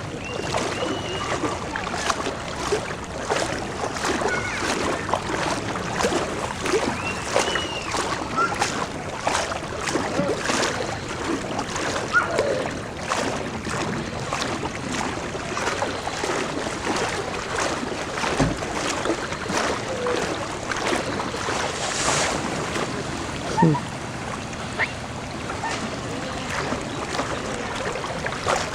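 Continuous sloshing and splashing of people wading through deep floodwater on a street, with many short splashes throughout.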